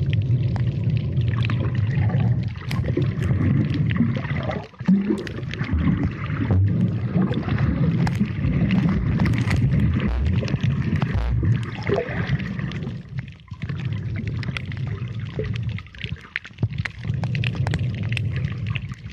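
Water heard through an underwater camera: a low, muffled rumble of moving water with gurgling and many small clicks, dropping away briefly a few times.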